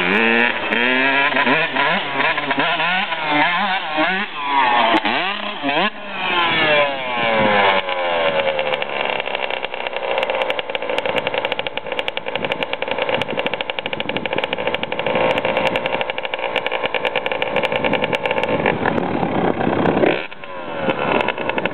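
Dirt bike engine revving up and down repeatedly. It then holds a steady high pitch for about ten seconds and drops off briefly near the end.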